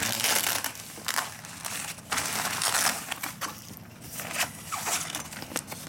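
Packaging being handled and crinkled in irregular rustling bursts while a new fire pit is unpacked.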